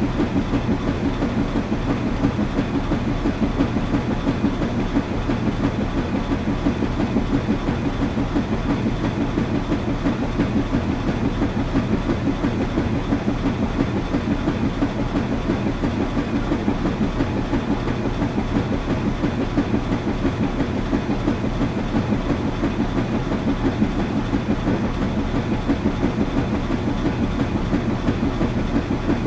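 Washing machine running steadily: a low, even hum with a fast, regular rattle that does not change.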